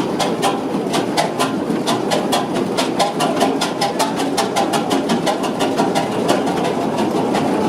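Old engine running steadily with a rapid, even mechanical clatter of about five to six knocks a second.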